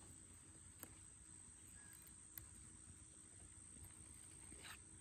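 Near silence, with a faint, steady, high-pitched drone of insects and two faint clicks, about a second in and around the middle.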